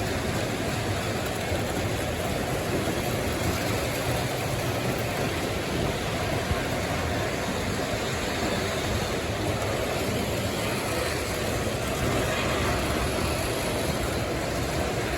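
O gauge model trains running on a layout, a steady rumble that holds at one level throughout with no separate clicks or horn.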